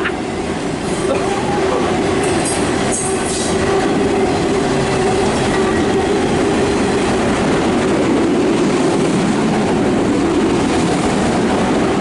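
Freight train of empty autorack cars rolling past on the rails, a continuous rumble of wheels that builds over the first few seconds and then holds steady.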